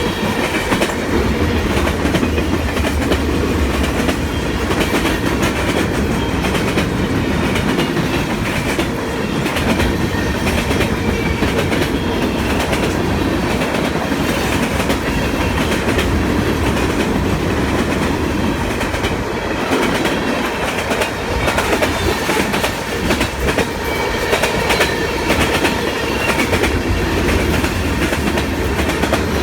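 A long freight train's cars rolling steadily past, with the wheels clattering over the rail joints under a constant low rumble.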